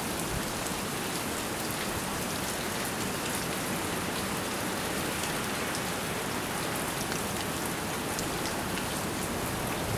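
Steady rain falling and hitting surfaces, an even hiss with faint scattered drop ticks and no thunder.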